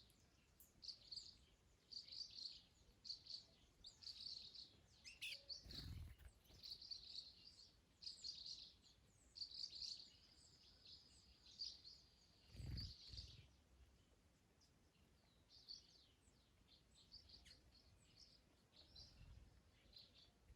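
Faint birdsong: short high chirps repeated about once a second, with one long held whistle near the middle, the chirps thinning out after about two-thirds of the way. Two brief low rumbles, about a third and two-thirds in.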